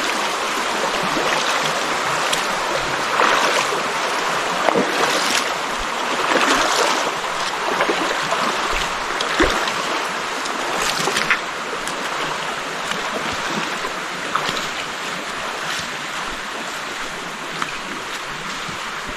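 Flowing stream water, a steady rush with short sharp splashes scattered through it, growing fainter a little past halfway.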